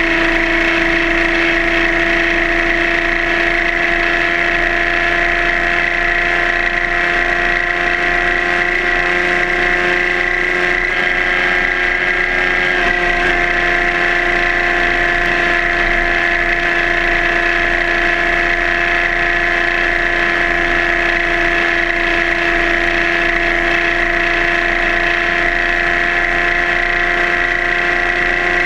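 Suzuki GSR600's inline-four engine running at a steady pitch, held at constant revs.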